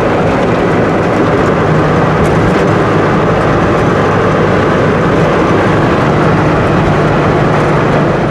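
Pickup truck driving on the road: a steady drone of engine and road noise with a low hum.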